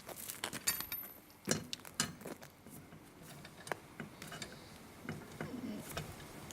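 Irregular clicks and knocks of tools and parts being handled during DIY car tyre-change work, the sharpest about one and a half and two seconds in, with quieter handling noise between.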